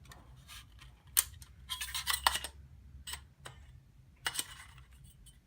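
Display-stand frame tubes being handled and pushed together: a run of sharp clicks and light clattering knocks, with a busy cluster about two seconds in and another near the end.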